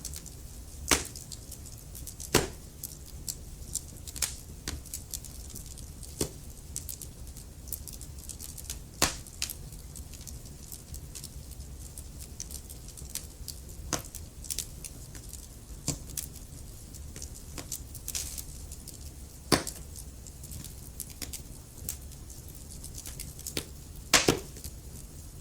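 Wood fire crackling in a fireplace: irregular sharp pops and snaps, a handful of louder ones, over a low steady rumble of the flames.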